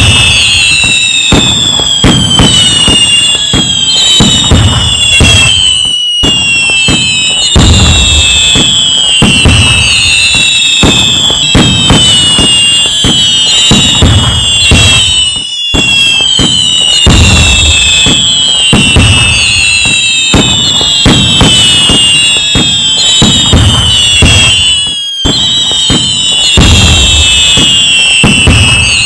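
Fireworks going off without a break: dense bangs and crackles under many overlapping whistles that fall in pitch. The pattern repeats about every nine and a half seconds, with a brief dropout each time.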